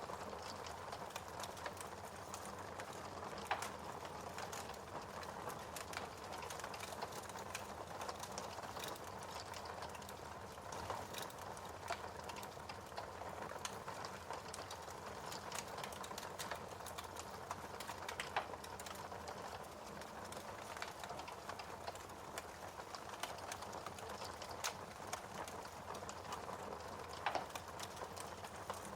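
Wood fire crackling steadily in a fireplace, with irregular sharp pops, a few louder ones standing out.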